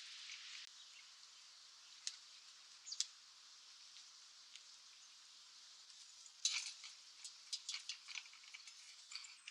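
A steady faint hiss of outdoor ambience with scattered sharp ticks and taps: two single ticks a second apart, then a quick irregular cluster of them from about six and a half seconds in.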